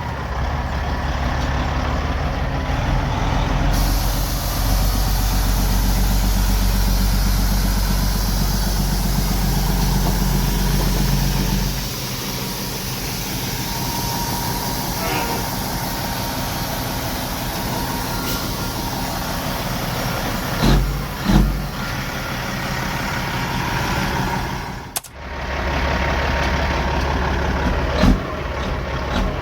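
Heavy dump truck's diesel engine running, pulling harder for about the first twelve seconds and then settling lower, with a few short knocks later on.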